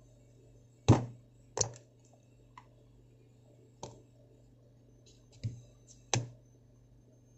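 About five sharp clicks and knocks, spread unevenly, from a Zippo-style petrol lighter and its parts being handled; the loudest is about a second in.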